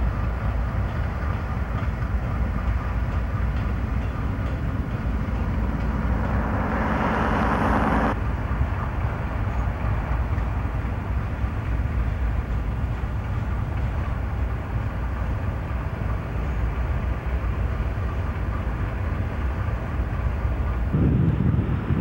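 Freight train diesel locomotives and cars rolling past close by, a steady rumble with wheel noise on the rails. Near the end wind buffets the microphone.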